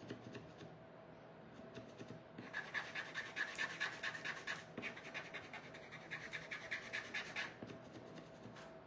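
A green paint marker scrubbing on wood in quick back-and-forth strokes, a scratchy rasp that comes fastest in the middle and eases off near the end. The marker is not flowing well and is being worked hard to lay down colour.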